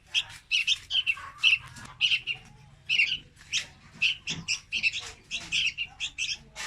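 Young red-whiskered bulbul calling: a rapid run of short, high chirps, about three to four a second.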